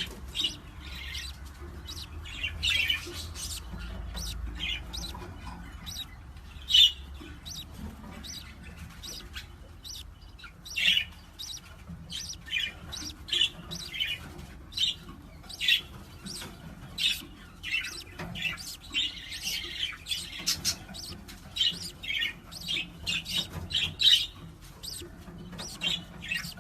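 Pet parrot chirping over and over in short, sharp calls, a few of them much louder than the rest.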